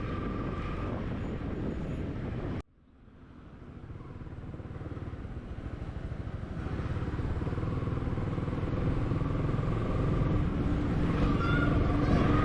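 Motorcycle on the move, a steady engine and road noise that cuts out abruptly about two and a half seconds in, then comes back gradually and grows louder through the rest.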